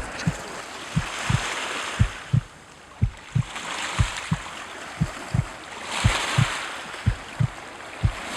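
Dull low thumps about twice a second, like footsteps over rocks jolting a handheld microphone, under swells of sea water washing against the shore.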